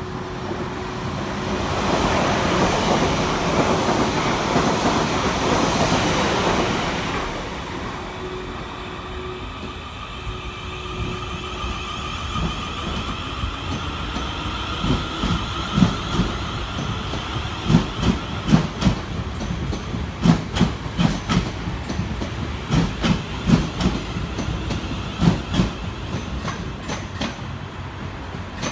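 Train running along the station platform: a loud rush of noise for the first several seconds, then a steady whine. From about halfway through, the wheels clatter over rail joints in an uneven run of knocks.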